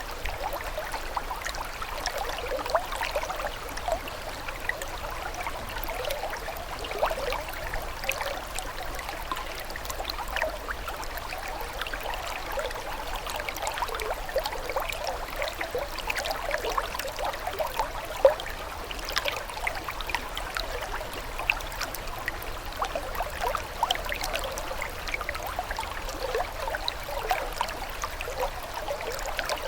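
Running water trickling and bubbling steadily, thick with many small, quick splashes and gurgles.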